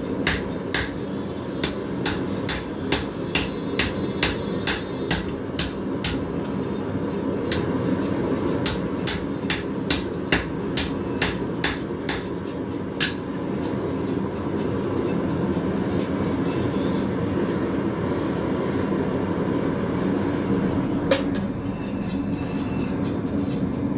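Blacksmith's hammer striking steel on an anvil in a quick steady rhythm, about two to three blows a second, stopping about halfway through with one last blow near the end, over a steady low rush.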